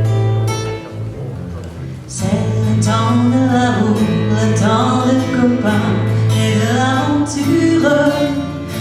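Live band playing with guitar: a held chord dies away, and about two seconds in the band comes back in with a lead vocal singing over it.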